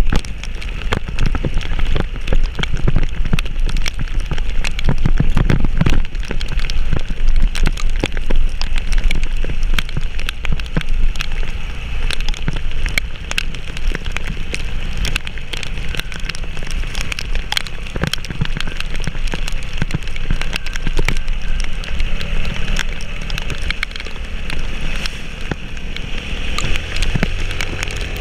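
Heavy rain, drops pattering and ticking on surfaces close to the microphone, over a steady low rumble.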